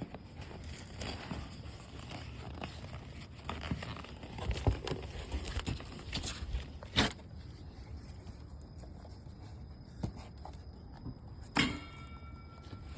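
Bonfire of cardboard and paper burning, with a low rumble and scattered crackles and pops. A sharp pop about seven seconds in, and a louder knock with a brief ringing tone near the end.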